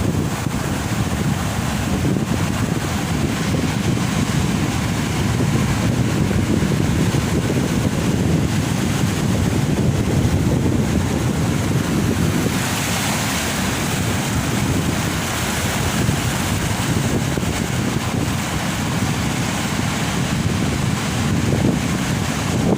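Heavy ocean surf breaking on a beach, a steady deep rumble of waves with wind buffeting the microphone. About halfway through a wave breaks with a brighter hiss of rushing water.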